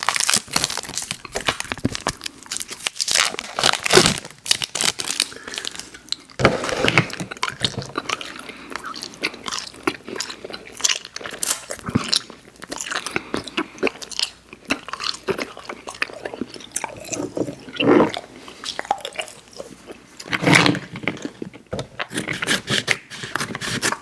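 A mouth close to the microphone chewing Airheads Xtremes sour candy: irregular, wet chewing and crunching sounds with a few louder bites.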